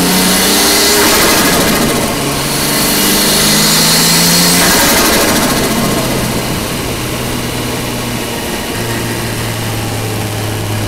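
Nissan RB25DET Neo turbocharged straight-six heard from inside the engine bay under acceleration. The engine note climbs, drops about a second in at an upshift, and climbs again with a hiss over it. About five seconds in it falls away and settles into a steady low cruise.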